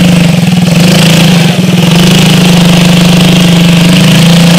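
Small off-road bike engine idling loud and steady, with an even pulsing beat.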